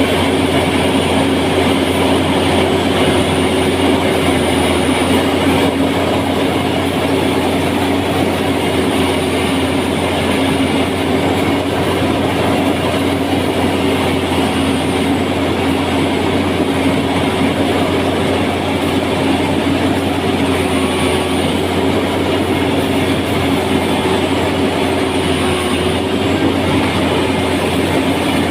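An engine running steadily under load with a continuous rhythmic clatter, from the machine working the flooded rice paddy.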